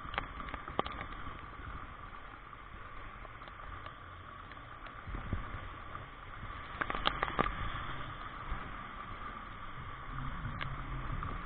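Steady rain noise with scattered sharp taps of drops close by, several of them bunched about seven seconds in.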